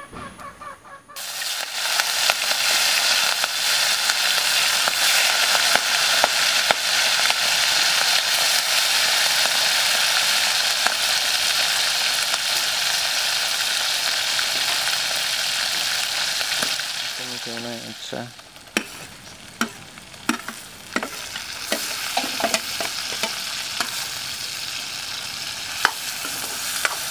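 Chopped onion and tomato sizzling in hot oil in a wok while being stirred with a metal spoon. The sizzle comes up loud about a second in, drops sharply about two-thirds of the way through, and carries on quieter with the spoon clicking against the pan.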